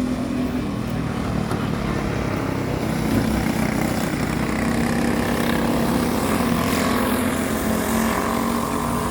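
Several small kart engines racing at high revs, their overlapping engine notes rising and falling as the karts pass and accelerate.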